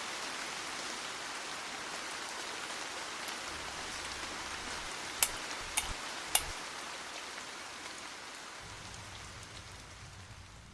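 Fire crackling in a fireplace: a steady hiss with three sharp pops about halfway through, the hiss fading toward the end.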